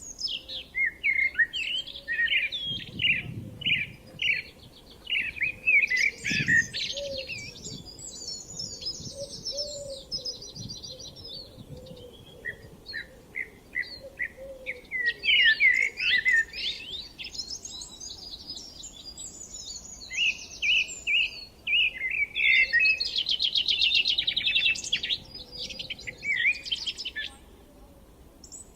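Several songbirds singing at once: overlapping phrases of quick chirps and rapid trills, with brief lulls between bursts.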